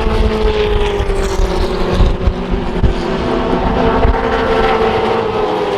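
Formula Ford open-wheel race cars running hard along the straight: a steady, high engine note that sinks slowly in pitch, with wind buffeting the microphone.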